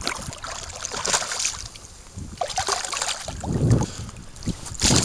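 Irregular knocks and thuds over a steady hiss of wind on the microphone, the loudest knock near the end.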